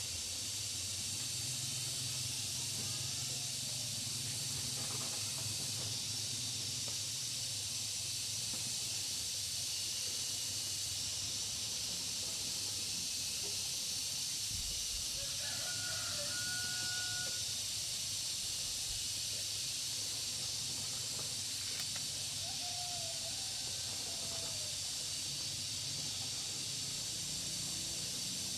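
A steady high-pitched hiss, with a rooster crowing about halfway through and a shorter call a few seconds later.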